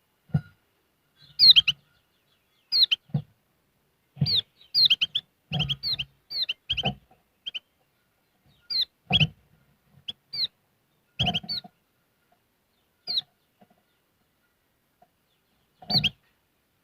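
Kecial kuning, a small caged songbird, chirping in short, scattered bursts of quick high notes.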